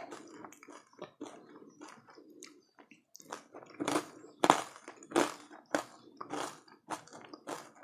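Close-up chewing of something crunchy: a string of sharp crunches, about one every half second, soft at first and louder from about four seconds in.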